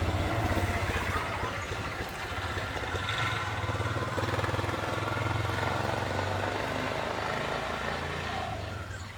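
Motor vehicle engine running steadily with a low, pulsing hum, fading away near the end.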